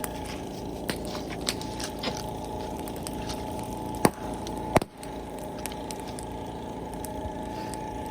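Bonfire of brush wood burning with a steady low rumble, scattered crackles, and two loud sharp pops about four and five seconds in.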